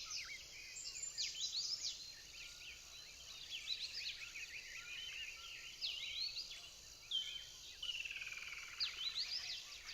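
Faint outdoor chorus of many short, high, quick chirps from small birds and insects, with a steady high insect hiss in the first couple of seconds and a falling whistle near the end.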